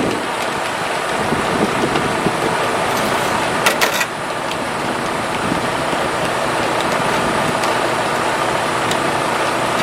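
Semi-truck engine running steadily, with a few sharp clicks about four seconds in.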